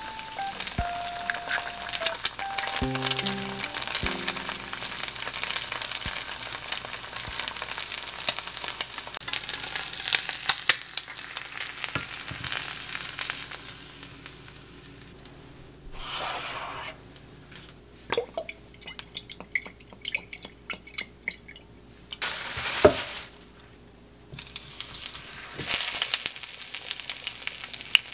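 An egg and sliced green onion frying in oil in a nonstick pan, a dense sizzle with crackles. Then comes a quieter stretch of scattered pops. Near the end a breaded pork cutlet sizzles loudly in oil.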